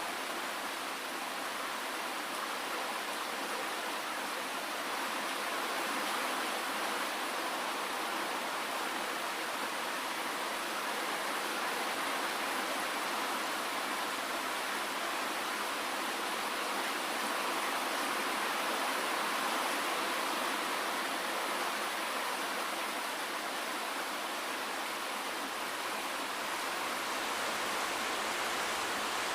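Steady rainfall: an even, unbroken hiss of rain with no single drops or other sounds standing out.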